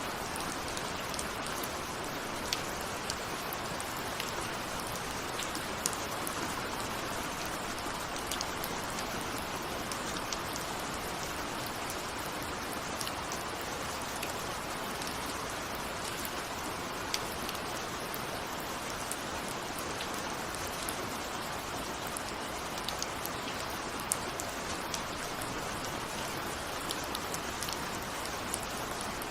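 Steady rain, with the sharp ticks of single raindrops striking a window scattered through an even hiss.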